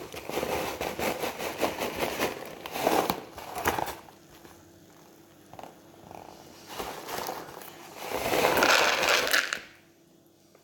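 Paper microwave popcorn bag rustling and crinkling as it is handled, with popped corn and kernels shifting inside; the loudest stretch comes about eight seconds in, after which it stops.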